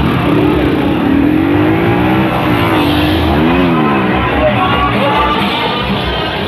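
A vehicle engine revving, its pitch climbing and falling several times, with the highest rev about halfway through, over background music.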